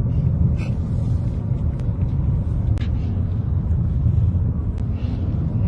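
A car driving, heard as a steady low rumble, with a few faint ticks over it.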